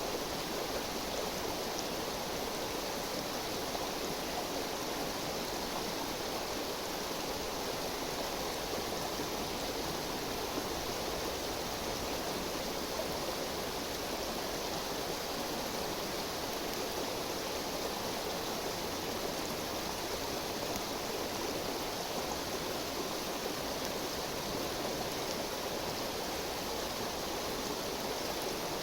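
A river or stream flowing steadily, a constant rush of water.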